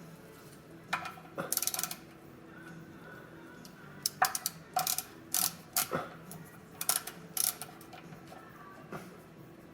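Ratcheting torque wrench clicking in short runs of quick clicks as it turns down the oil drain plug. There are several runs, about a second in and again from about four to seven and a half seconds in.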